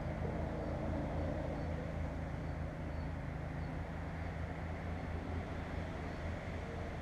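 An engine running steadily at an even pitch, a low continuous drone.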